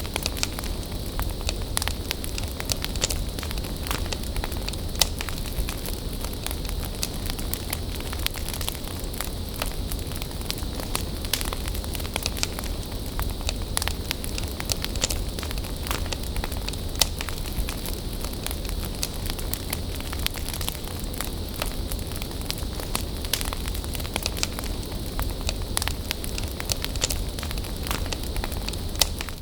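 Bonfire crackling: a dense, irregular run of small sharp pops and snaps over a steady low rush of burning wood, with a few louder pops here and there.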